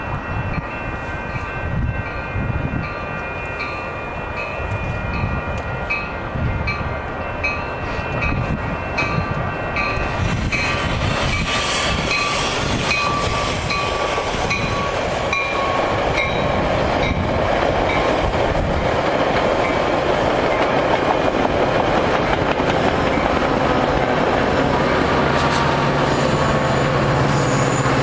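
A train approaching and passing: its horn sounds over a steadily repeating bell, the horn's pitch drops as it goes by, and the passing train's rumble and wheel clatter grow louder.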